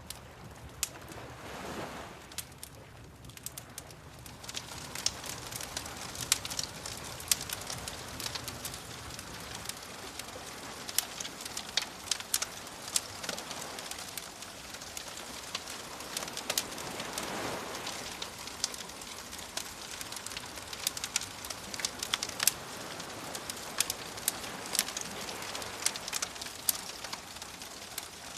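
Wood fire crackling, with frequent sharp pops, over soft waves that swell and wash in a few times.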